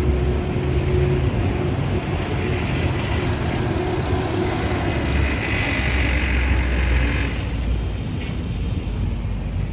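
Street traffic: vehicle engines rumbling steadily, with a vehicle passing and its tyre hiss rising and fading about five to seven seconds in.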